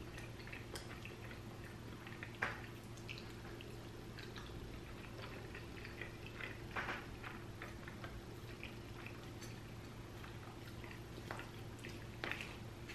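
Close-miked eating sounds: chewing and wet mouth clicks, with a few sharp taps of a plastic fork on the plate, the clearest about 2.5, 7 and 12 seconds in. A faint steady hum lies underneath.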